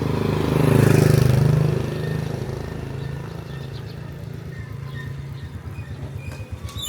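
A motor vehicle's engine passing close by on the street, loudest about a second in and then fading away. A low pulsing engine hum carries on behind it.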